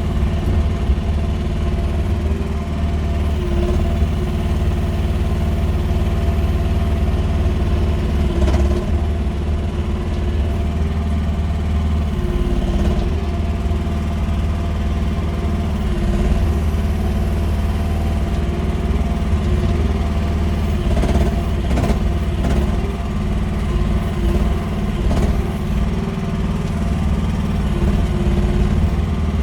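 Small mini excavator engine running steadily under work, with a few brief clanks about a third of the way in and again about three quarters through.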